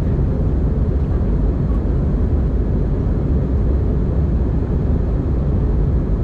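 Airbus A320-200 cabin noise in flight: a steady low rumble of the engines and rushing air, even throughout.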